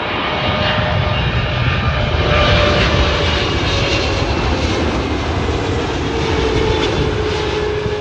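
Boeing 777-200LR's GE90 turbofan engines on landing approach, passing close by: a steady jet rumble with a whining tone that slowly falls in pitch, fading a little near the end.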